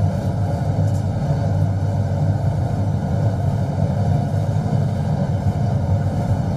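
Diesel train running along the track, heard from the cab: a steady engine drone over a low rumble.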